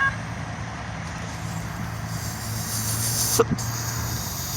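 A CSX freight train's multi-tone horn cuts off right at the start. A steady low rumble follows, and a hiss builds from about two seconds in, with a single sharp click about three and a half seconds in.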